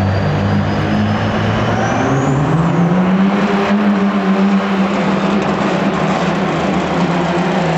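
Diesel pulling truck's engine running hard under load; its pitch climbs about two seconds in and then holds high. A thin high whistle rises alongside it and falls away.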